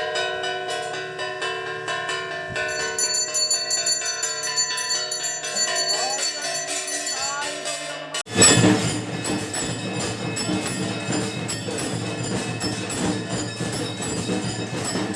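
Bells ringing: long, steady metallic tones that overlap for about eight seconds. Then, after an abrupt cut, a denser jangling clatter of many quick strikes.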